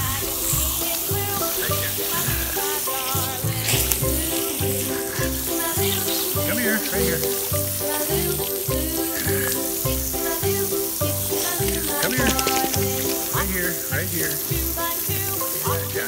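Water from a garden hose spraying and splashing onto a soapy bulldog and wet concrete, a steady hiss. Background music with a steady beat plays under it.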